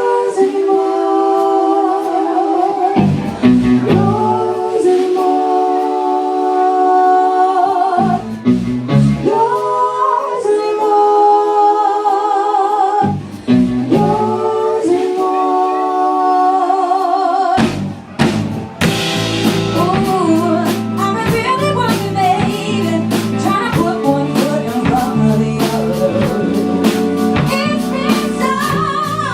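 Live band playing a song with a female lead vocal. The first phrases are long, wavering held notes over sparse accompaniment; about 17 seconds in, drums and bass come in with a steady beat.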